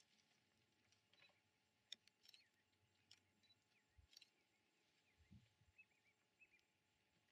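Near silence: faint outdoor bush ambience with scattered faint clicks and a few faint, short, high chirps, like distant birds, in the second half.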